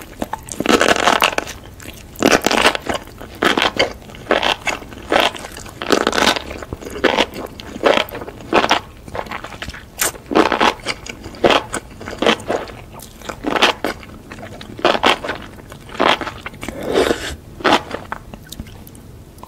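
Close-miked chewing of enoki mushrooms in a thick spicy sauce: wet, crunchy mouthfuls about two a second.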